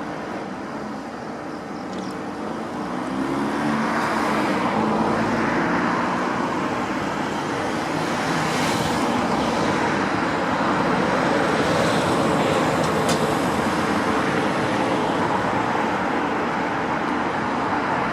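Road traffic going by: a steady rush of car tyres and engines that grows louder a few seconds in, with a few swells as vehicles pass.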